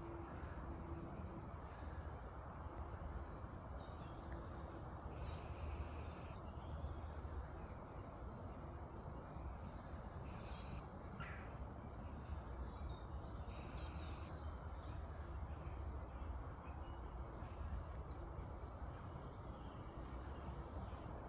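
Birds singing in short high phrases every few seconds over a steady low outdoor rumble.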